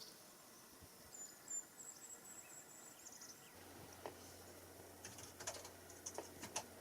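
Near-silent ambience with faint high-pitched bird chirps about a second in, then a few scattered light clicks near the end.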